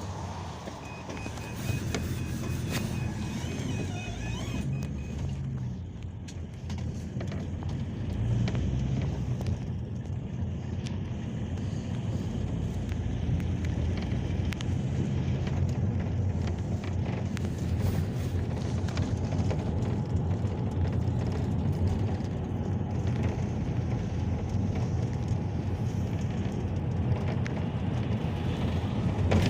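Peugeot Boxer minibus driving, heard from inside the cabin: a steady engine and road rumble that grows louder about eight seconds in. A string of quick high beeps sounds near the start.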